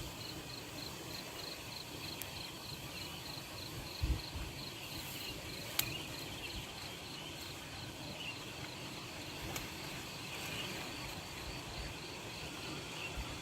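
An insect calling in the forest: a high, pulsed chirp repeating about four times a second, over a steady background hiss. A sharp click sounds a little before the middle.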